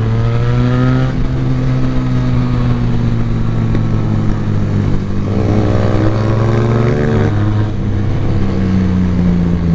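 Benelli TNT 300's parallel-twin engine pulling under load while riding, its pitch climbing slowly, easing off about a second in and again about seven seconds in.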